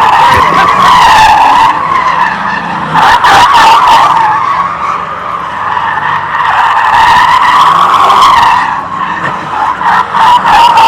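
Car tyres squealing in a continuous screech as a car slides through a burnout at a car meet, the pitch wavering up and down, with a few sharp cracks partway through and near the end.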